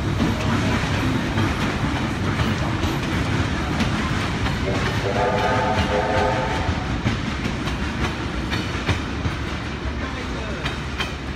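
Heritage passenger carriages rolling past on the rails with a steady rumble and the click of wheels over rail joints. About five seconds in a train whistle sounds once for about a second and a half.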